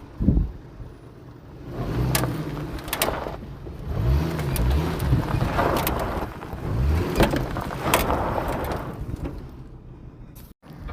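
Truck driving, its engine rising and falling in pitch several times, with a thump about a third of a second in and scattered knocks and rattles over road and tyre noise.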